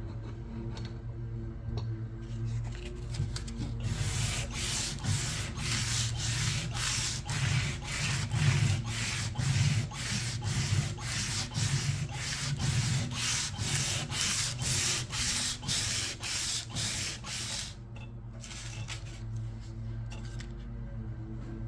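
Sandpaper being rubbed back and forth by hand to strip old paint and finish, in quick even strokes of about two to three a second. The strokes start about four seconds in and stop a few seconds before the end, over a steady low hum.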